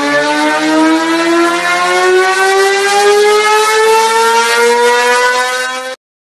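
Moto2 racing motorcycle engine with an Akrapovic exhaust, held at full throttle on a dynamometer, its pitch rising steadily as the revs climb through one long pull. The sound cuts off abruptly near the end.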